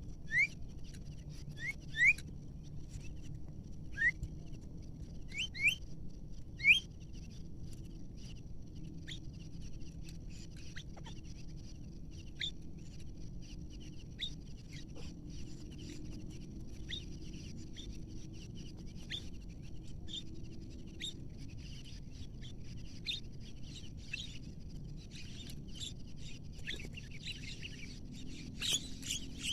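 Birds calling: a string of short, sharp rising chirps, loudest and most frequent in the first seven seconds, then fainter scattered chirps, over a faint steady high-pitched tone.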